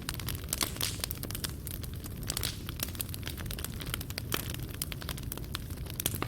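Wood fire burning in a fireplace: a steady low rumble of flames with frequent irregular crackles and pops as the wood and embers snap.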